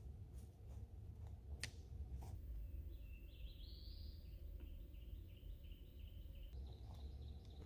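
A songbird singing: a short rising warble, then a run of evenly spaced repeated notes, starting a couple of seconds in, over a steady low rumble. Two sharp clicks come just before the song.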